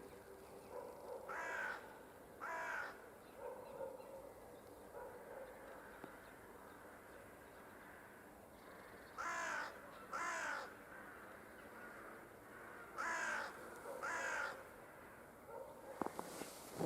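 A crow cawing in pairs: three sets of two caws a few seconds apart, with fainter calls between them. Footsteps start crunching in snow near the end.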